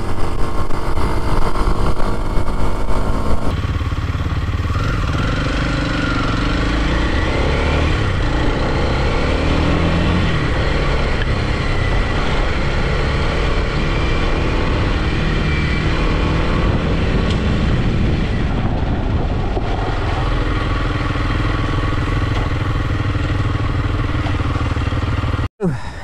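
Kawasaki KLX230 single-cylinder dual-sport motorcycle engine running steadily at road speed, about 50 mph on pavement. The engine pitch drifts up and down with the throttle over a steady rush of noise, and the sound cuts out for a moment near the end.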